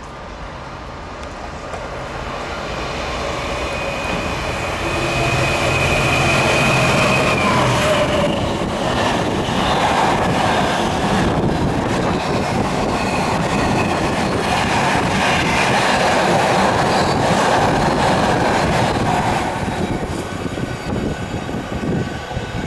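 A Class 66 diesel locomotive's EMD two-stroke V12 engine grows louder as it approaches and passes, with a high steady tone as it nears. Then comes the steady noise of a long rake of empty container flat wagons running past, which dies away near the end.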